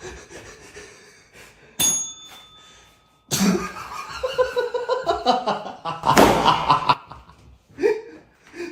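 People laughing in bursts, loudest in the second half. About two seconds in comes a short ringing chime.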